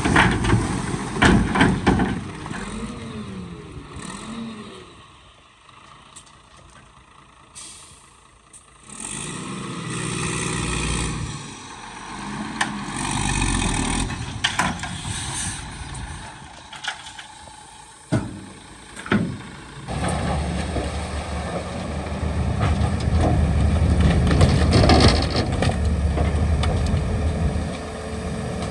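Heavy diesel earthmoving machinery at work. An engine revs up and down in the first few seconds, then there is a quieter patchy stretch with a few sharp short sounds, and from about two-thirds of the way through a loud engine runs steadily.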